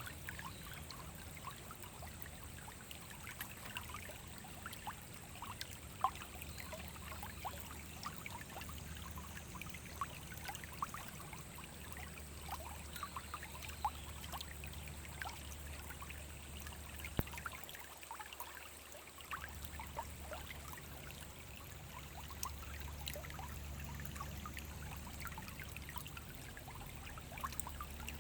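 Small forest stream flowing, a steady trickling rush dotted with many short splashes and plinks.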